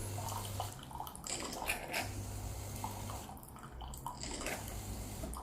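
De'Longhi bean-to-cup coffee machine running a cleaning rinse: water trickling and dripping, over a low pump hum that comes and goes.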